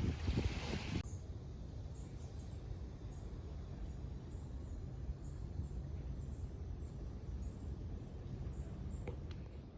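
Outdoor ambience: a steady low rumble of wind on the microphone, with faint, short, high chirps repeating a couple of times a second. A louder rustling noise cuts off suddenly about a second in.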